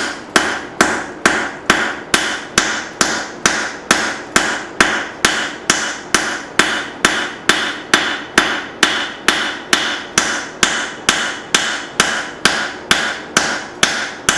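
Blacksmith's hammer striking hot leaf-spring steel on an anvil in a steady rhythm of about two and a half blows a second, each blow with a short metallic ring, while a hatchet head is forged to shape.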